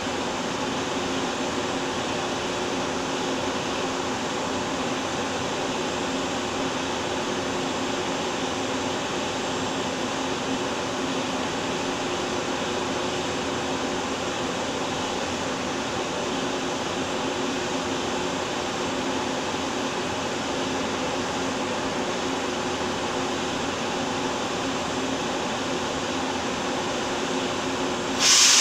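Steady hum of a standing passenger train's air-conditioning and onboard power equipment, with a few faint steady tones. Near the end, a sudden loud hiss that dies away over about a second.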